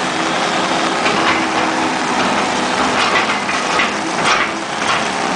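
Heavy rain pouring down, with an engine running steadily underneath and a few short sharp cracks about a second, three seconds and four seconds in.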